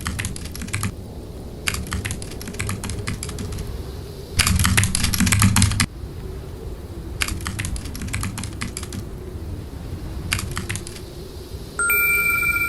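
Computer keyboard typing in five separate spells of rapid key clicks, the middle spell the loudest, over a steady low wind-like snowstorm noise. Near the end a bell-like chime sounds and keeps ringing.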